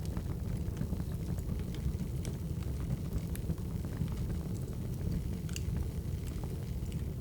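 Wood fire crackling: a steady low rumble of burning logs with scattered small, sharp pops and snaps.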